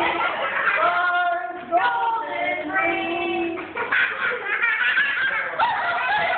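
People singing in drawn-out held notes, mixed with laughter.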